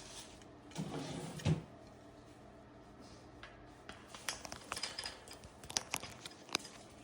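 Things being rummaged and knocked about in a macaw's cage. There is a soft thump with rustling about a second and a half in, then a run of sharp clicks and taps through the second half.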